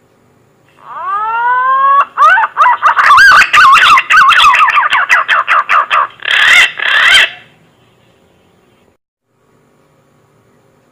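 Green pigeon (punai) call played as a lure: a series of whistled notes that first rise and then waver rapidly up and down, lasting about six seconds. It is loud and distorted in places.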